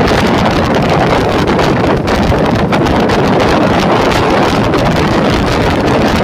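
Wind buffeting the microphone inside a moving suburban electric local train, over the train's steady running noise with a constant rattle.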